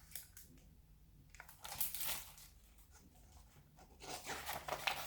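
Paper rustling, twice, as the pages of a picture book are handled and turned.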